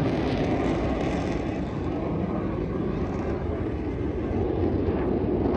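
Steady jet engine noise from Blue Angels F/A-18 Super Hornets in flight, a dense even noise strongest in the low-middle range.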